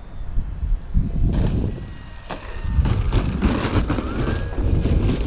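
Strong wind gusting over the microphone in loud, uneven rumbles. A faint high whine from the FMS Beaver RC plane's electric motor rises and falls in pitch in the second half.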